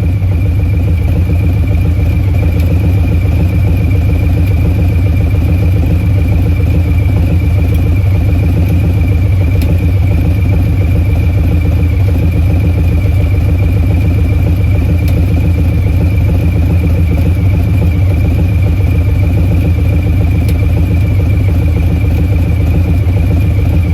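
Harley-Davidson Low Rider S Milwaukee-Eight 114 V-twin running steadily through a Bassani Short Ripper 2-into-1 exhaust. It holds an even idle-like speed with no revving.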